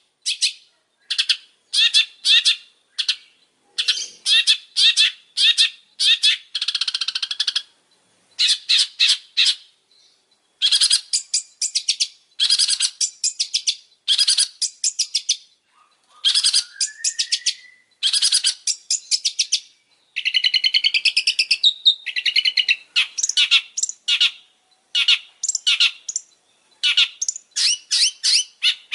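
Long-tailed shrike singing a fast chattering song: short bursts of rapidly repeated sharp, high notes separated by brief pauses, with a rising whistled glide about halfway through and a denser warbling run a little later.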